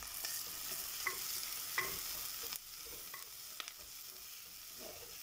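Sliced onions and crushed dried red chilli sizzling in hot oil in a clay pot while a wooden spoon stirs and scrapes them, with a few light clicks of the spoon against the pot. The sizzle eases a little about halfway through.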